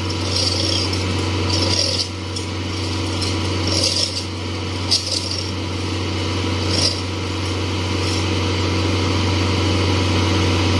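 Heavy machinery engine running steadily with a low, even hum. Several short high-pitched scrapes or squeaks come at uneven intervals over the first seven seconds, typical of metal parts of the working excavator rubbing.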